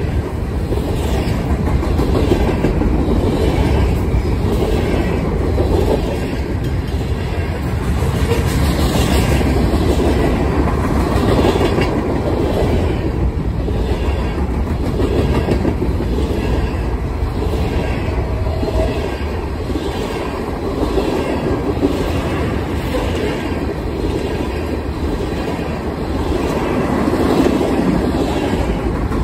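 Freight train of covered hopper cars and tank cars rolling past close by: a steady rumble of steel wheels on rail with a regular clacking about once a second.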